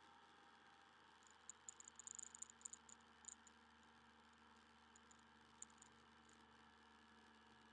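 Motorcycle engine running, heard faintly as a steady hum. A cluster of small sharp clicks or rattles comes about a second in, with a few more around five seconds.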